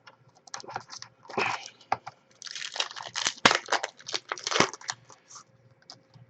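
Foil wrapper of a trading card pack being torn open and crinkled: irregular rustling and tearing noises lasting about five seconds.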